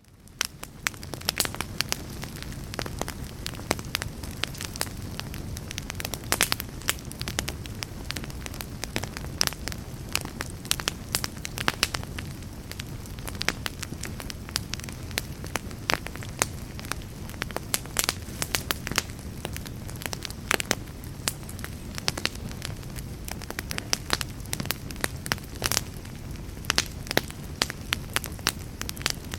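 Log fire burning in a fireplace: a steady low rush of flames with frequent sharp crackles and pops from the burning wood. The sound fades up out of a brief gap in the first second.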